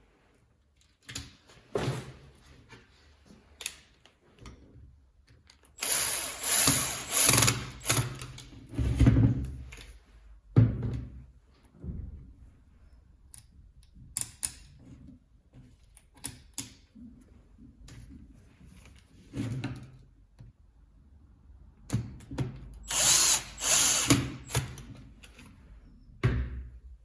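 A power tool runs in two short bursts of about two to three seconds each, with scattered clicks and knocks of handling between them.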